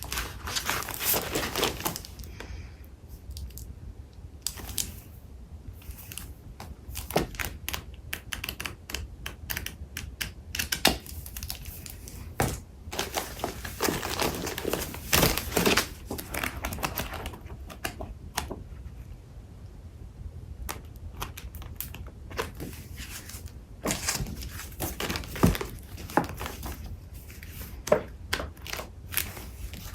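Paper craft supplies being shuffled and handled: rustling and crinkling of paper sheets with frequent sharp taps and clicks.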